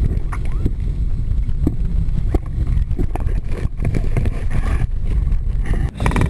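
Strong wind buffeting the microphone as a heavy, continuous low rumble, with a few short ticks through it.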